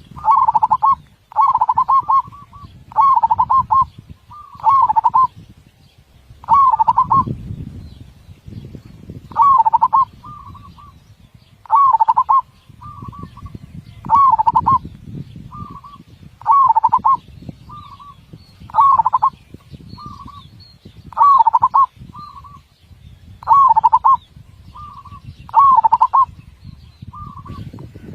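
A zebra dove (perkutut) singing its cooing song over and over, a short warbling phrase about every two seconds, some ending in a brief extra note. It is a full-voiced song with tightly spaced beats, the kind kept as a master recording for training other perkutut.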